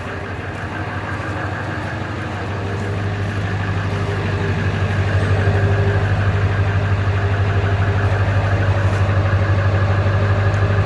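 Steady low engine or motor hum, slowly growing louder, with no distinct knocks or clicks.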